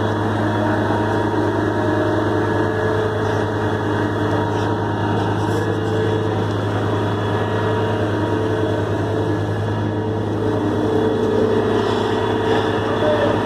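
Heavy truck engine running steadily at constant speed.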